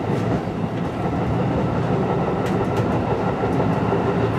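Seibu 101 series electric train running along the track, heard from inside the driver's cab: a steady rumble of wheels and running gear. A few sharp wheel clicks on the rails come a little past halfway.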